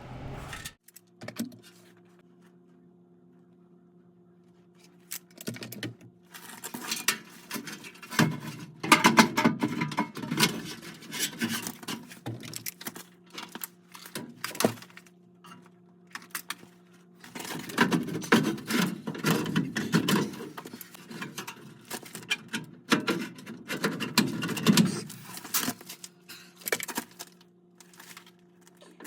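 Irregular clicking and rattling of small hard objects being handled, starting about five seconds in and coming in busy stretches, over a faint steady hum.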